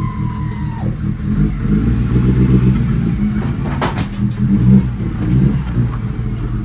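A small truck's 2-litre petrol engine running on fresh spark plugs as the truck is driven out slowly, its note growing louder about a second and a half in. There is a sharp click about four seconds in.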